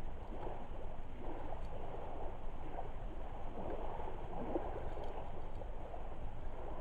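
Lake water lapping at the shore in a steady, shifting wash, with a couple of faint crackles from a driftwood campfire.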